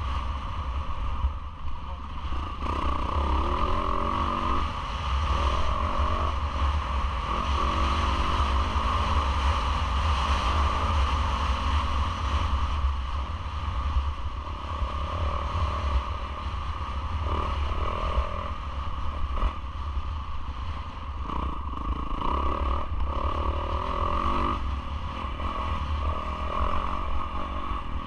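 Yamaha YZ450F motocross bike's single-cylinder four-stroke engine being ridden hard, its revs rising and falling again and again, with a heavy low wind rumble on the onboard camera's microphone.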